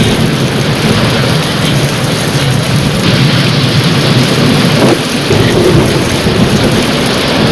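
Heavy rain falling steadily under a low, rolling thunder rumble.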